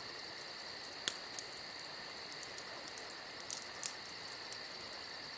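Faint, steady chirping of crickets: a rapid, even pulsing high in pitch, with a few faint clicks about a second in and near four seconds.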